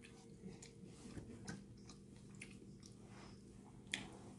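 Faint close-up chewing of a spring roll: scattered small mouth clicks and crackles, with one sharper click near the end, over a faint steady hum.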